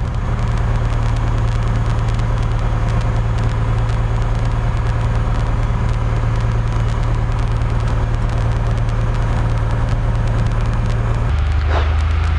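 A Cessna 172F's Continental O-300 six-cylinder engine is idling steadily on the ground, heard from the cockpit. About 11 seconds in, the engine note drops slightly lower.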